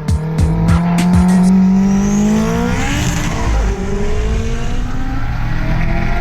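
Race cars at full throttle in a street drag race. The engine note climbs steadily, then swells and drops in pitch about three seconds in as a car goes past. Backing music fades out in the first second or so.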